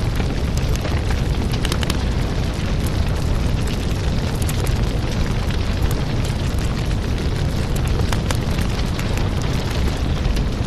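Firewood burning in an open fire: a steady low rush of flame with many sharp crackles and pops from the burning wood.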